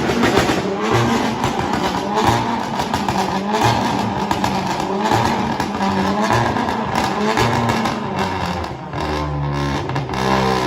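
Car engines revving, with pitch rising and falling. About nine seconds in, one engine settles into a steady run.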